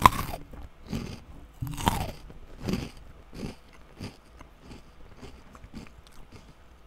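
A puffed rice cracker bitten and chewed close to the microphone. Two loud crunches, one at the start and one about two seconds in, then a run of softer chewing crunches that fade away.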